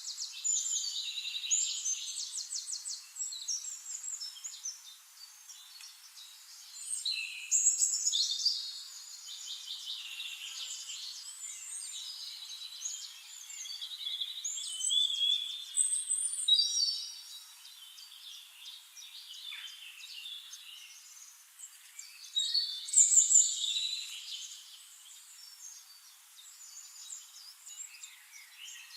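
Tropical forest birds singing, several songs overlapping in bursts of rapid trills and chirps every few seconds, the loudest burst about three quarters of the way through.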